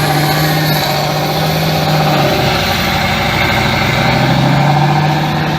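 Heavy truck engine running steadily, with a brief dip in pitch about halfway through.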